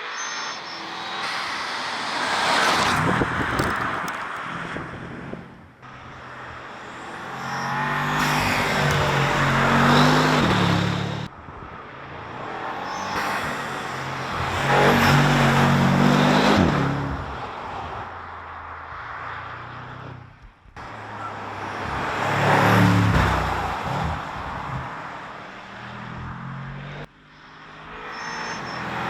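High-performance car engine and exhaust accelerating hard and passing by in a series of short takes. Each take swells to a loud peak with rising pitch, then fades, and the takes are joined by abrupt cuts.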